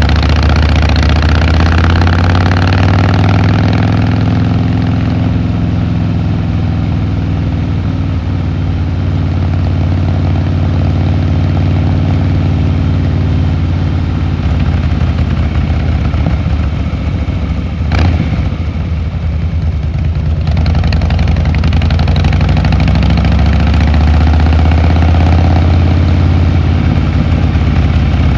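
Harley-Davidson Fat Boy Lo V-twin engine and exhaust running while riding, dropping in pitch as it slows over the first few seconds, then holding a steady low pulse. There is a single sharp click about two-thirds of the way through, and the engine picks up again near the end.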